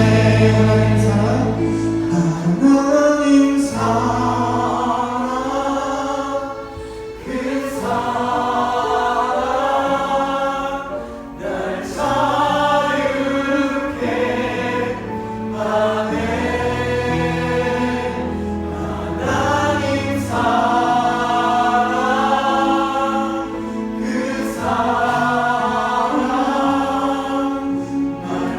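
A contemporary Christian worship song: a group of voices singing together over instrumental backing with held low notes. The phrases break briefly about six and eleven seconds in.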